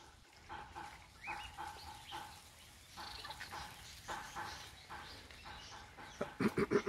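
Birds calling in a run of short repeated notes, with a few sharp knocks near the end.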